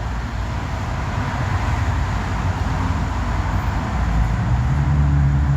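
Steady low rumble of vehicle noise, with a low hum coming in near the end.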